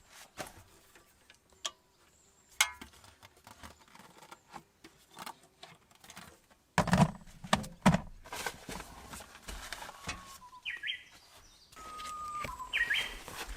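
Scattered clicks and knocks of things being handled, with two heavy thumps about seven seconds in, and a small bird giving two short chirping calls near the end.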